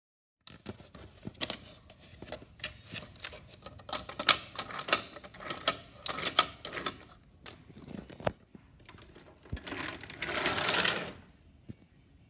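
Brio wooden toy train and track pieces clicking and clattering in a quick, irregular run of clacks. Near the end comes a rushing noise lasting about a second.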